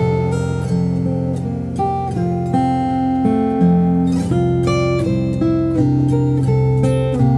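Background music: acoustic guitar playing, plucked and strummed notes changing every half second or so.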